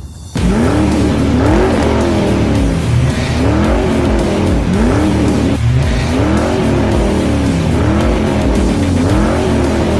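Ford Mustang sports car engine revving up and down over and over, each rev a rising then falling pitch about a second long, with tyre squeal from a burnout. It cuts in sharply just after the start, over background music with a steady bass.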